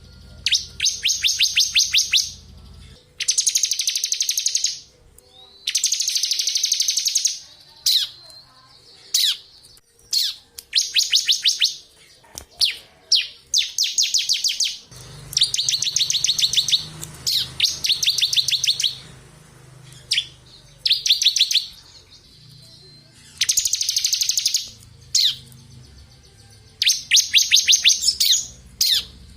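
Bar-winged prinia (ciblek) singing its 'ngebren' song: a series of rapid rattling trills, each a second or two long, separated by short sharp single chips.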